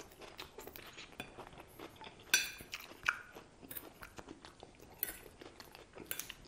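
Close-miked chewing of a crisp iceberg lettuce salad with ranch dressing: wet crunching and mouth sounds in quick irregular crackles, one louder about two seconds in. A metal fork clinks and scrapes on the plate as it spears more salad.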